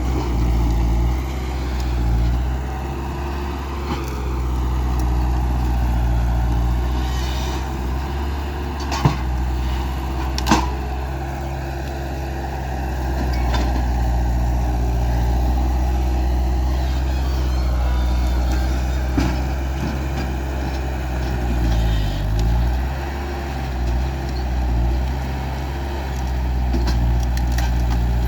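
Skid steer loader's diesel engine running steadily, its pitch briefly sagging and recovering a little over 20 seconds in. Two sharp metallic clanks stand out, about 9 and 10.5 seconds in.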